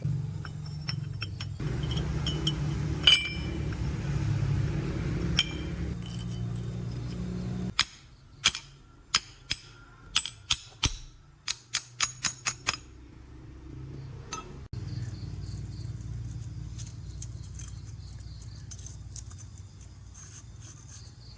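Metal tools and parts clinking and tapping: a few sharp clinks over a steady low hum, then a quick run of about a dozen sharp metallic taps in the middle, after which the low hum comes back.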